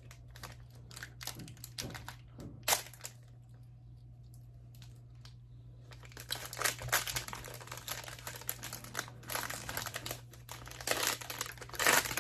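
Food packaging crinkling and rustling in quick bursts as a wrapped cake treat is worked open by hand, with a quiet pause of a few seconds in the middle.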